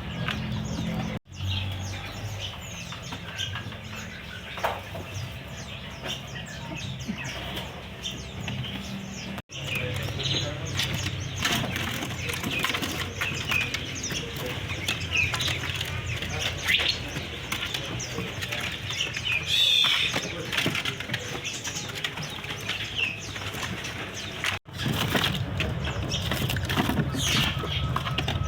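Many caged songbirds chirping and trilling at once, with wings fluttering in the cages. The sound breaks off abruptly three times.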